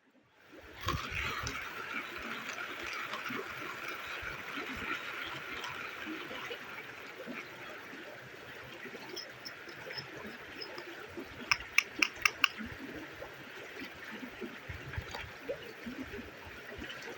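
Steady sound of moving water, like running or bubbling water, cutting in suddenly about a second in, with five quick sharp clicks a little past the middle.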